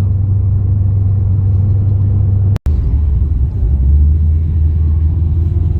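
Holden VX Commodore SS's 5.7-litre LS1 V8, fitted with an aftermarket exhaust, idling with a steady low drone. The sound drops out for an instant about two and a half seconds in, and the idle drone then sits a little lower.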